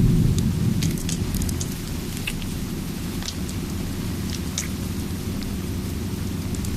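Steady rain ambience with a crackling fire, scattered sharp pops over the hiss. A low thunder rumble dies away over the first two seconds.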